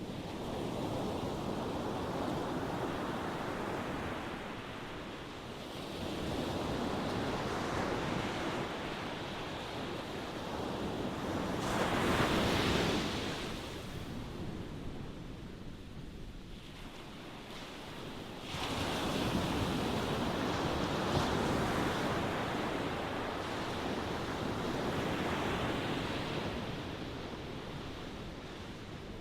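Ocean waves breaking and washing ashore, the rushing water swelling and fading in surges about every six seconds; the loudest surge comes a little before the middle.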